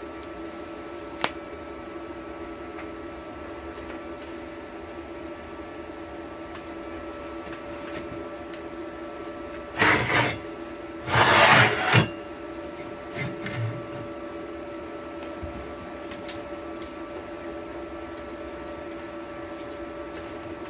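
TIG welder running: a steady electrical hum with several fixed tones. It is broken by a sharp click about a second in and by two short, loud hissing bursts about ten seconds in.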